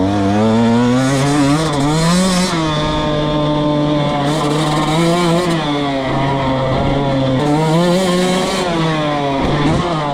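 Dirt bike engine being ridden hard, revving up and easing off about three times as the rider works the throttle around the track.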